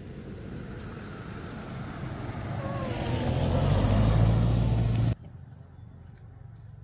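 A motor vehicle engine running and growing steadily louder as it draws near, then cutting off suddenly about five seconds in.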